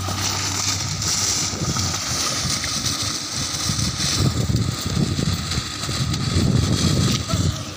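Small hatchback's engine running as it is pushed through loose gravel, with wind buffeting the microphone from about four seconds in.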